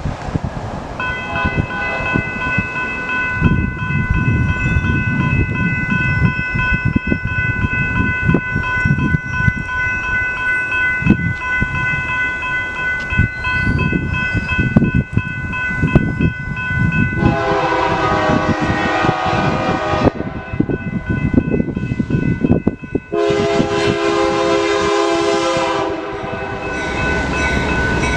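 BNSF freight train passing, its wheels rumbling and knocking on the rails under a steady high ringing tone. The lead diesel locomotive sounds its chord horn in two long blasts, starting about 17 and 23 seconds in, and a third blast begins near the end.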